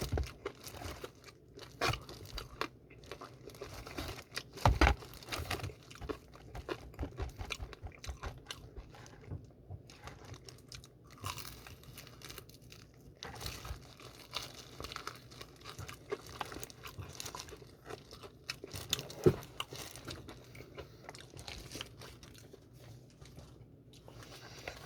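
A person biting and chewing crispy BHC Puringkle fried chicken close to the microphone: irregular crunches and crackles of the fried coating, with louder bites about two and five seconds in and again near the end.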